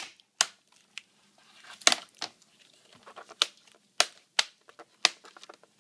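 Plastic screen bezel of a laptop being peeled off by hand, its clips popping loose in a string of irregular sharp snaps with small crackles between them.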